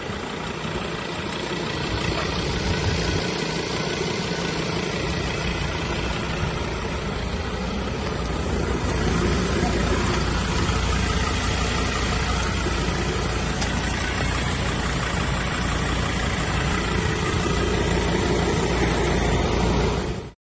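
Ford Ranger's 3.2-litre five-cylinder turbodiesel idling steadily, a little louder about nine seconds in.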